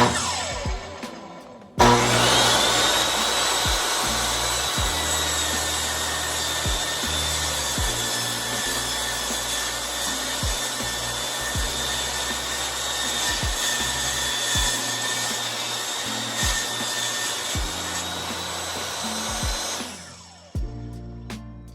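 Table saw switched on about two seconds in, running with a steady high whine while trimming about half an inch off a board, then winding down near the end. A sharp click sounds right at the start, and music plays underneath.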